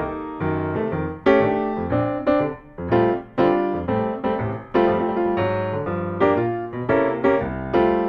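Instrumental piano music: a steady run of struck notes and chords.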